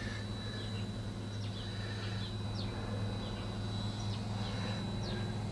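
Birds chirping, short falling chirps every second or so, over a steady low hum.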